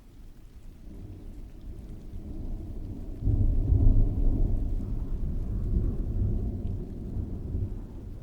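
A roll of thunder over steady rain: a low rumble builds from about a second in, breaks into a sharp, loud clap about three seconds in, then rolls on and slowly fades.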